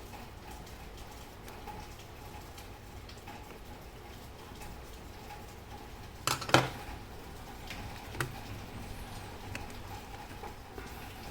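Small metal clicks and clinks of clock parts and tools being handled, irregular and mostly faint. There are two sharp clicks a little after six seconds in and a lighter one about two seconds later.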